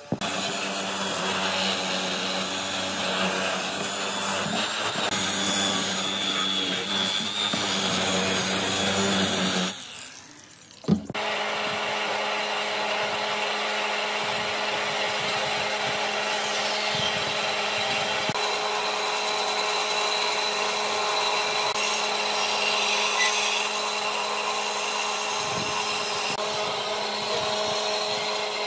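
An electric power tool running steadily on wood with a constant motor tone. About ten seconds in it drops away for about a second, a single sharp knock follows, and then it runs steadily again.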